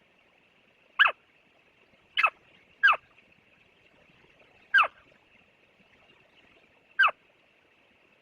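Barn owl giving five short, sharp calls, each sliding quickly downward in pitch, spaced irregularly about one to two seconds apart.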